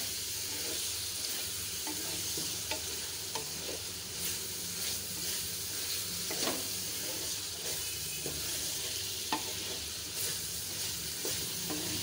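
Chicken pieces frying in oil with spices in a metal pan, a steady sizzle, while a spoon stirs and scrapes them, with scattered clicks of the spoon against the pan.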